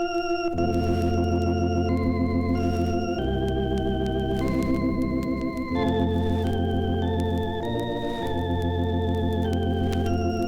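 Electric organ playing slow sustained chords over a bass line, with a light wavering vibrato; the chords change every second or two and the bass notes come in about half a second in.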